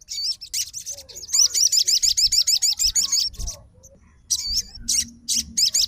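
Sogon songbird singing in bursts of rapid, looping high chirps repeated several times a second, with a short pause about four seconds in: a male 'fighter' bird in full, excited call.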